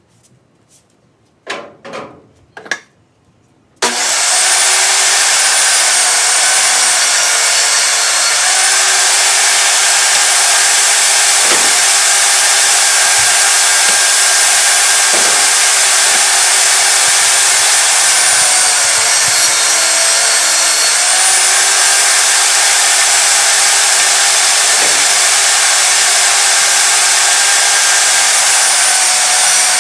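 A few knocks of wood being handled, then, about four seconds in, an electric woodworking power tool starts and runs loud and steady, its pitch dipping slightly now and then as it works a wooden piece down to size.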